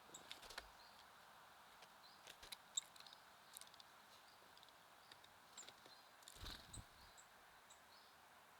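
Faint, short songbird chirps scattered over a low outdoor hiss, with sporadic light taps and clicks. The sharpest tap comes near the middle, and a small cluster of duller knocks comes later.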